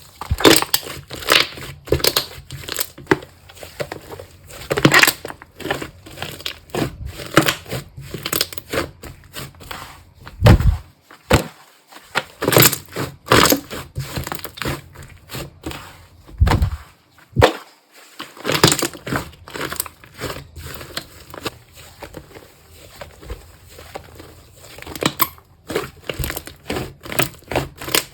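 Slime being squeezed, stretched and poked by hand, making irregular crackling, popping and squelching clicks, with a couple of deeper squishes about ten and sixteen seconds in.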